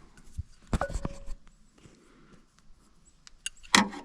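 Hand tools being handled: a few metal clinks and knocks, one with a brief ring about a second in, and a sharp clack near the end.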